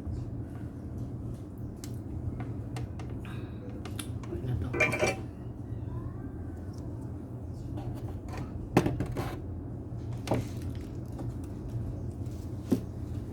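Scattered clicks and light clatter of small hard objects being handled, a cluster about five seconds in and single sharper clicks later, over a steady low hum.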